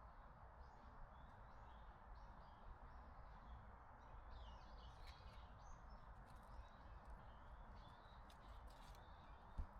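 Faint birdsong: many short, high chirps repeating over a quiet outdoor background, with a single low thump just before the end.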